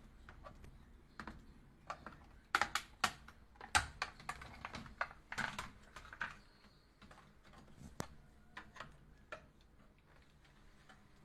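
Scattered light clicks and knocks at an uneven pace, busiest a few seconds in.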